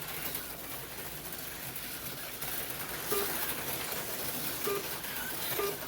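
HO-scale slot cars running laps on the track, a steady high whir and rattle of small motors and wheels. A few short pitched blips come in about three seconds in and twice more near the end.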